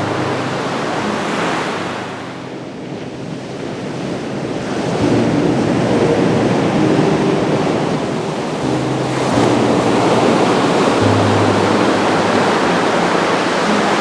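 Ocean surf washing on a beach: a steady rush of waves that eases off, then swells up again about five seconds in and once more about nine seconds in. Soft, low held music notes run faintly underneath.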